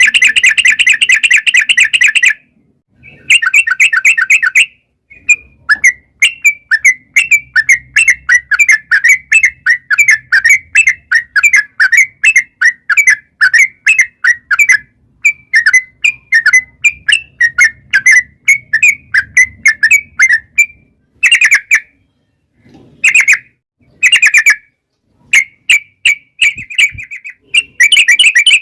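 Yellow-vented bulbul (trucukan) calling in a long rolling song ('ropel'): loud, rapid chattering bursts at the start and near the end, with a long run of quick repeated notes in between.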